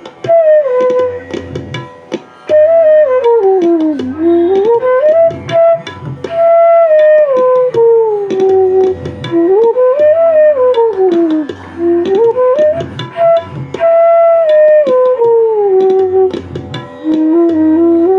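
Bansuri (bamboo flute) in E playing a flowing melody with smooth slides up and down between notes, over a light percussion accompaniment of low thumps and clicks.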